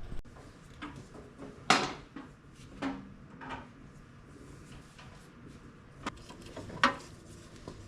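Hydraulic hose couplers being handled and pushed onto a compact tractor's hydraulic outlets with the engine off: a few scattered metal clacks and knocks, the loudest a little under two seconds in.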